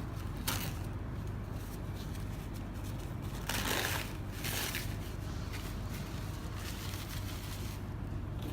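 Hands working on the bearing test rig as the test bearing is turned to a fresh side. There are a few short rustling, scraping handling noises, the longest about halfway through, over a steady low hum.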